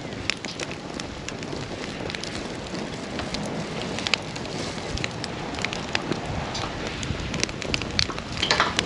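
Wood campfire crackling and popping over a steady rush of flame, with scattered sharp snaps throughout and a brief louder burst of crackling near the end.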